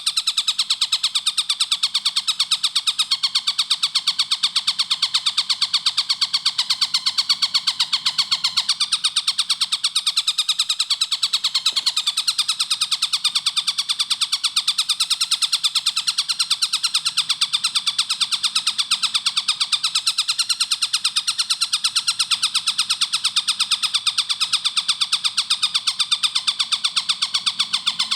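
Tengkek buto kingfisher calling in a fast, unbroken run of sharp repeated notes, many per second, with no pauses.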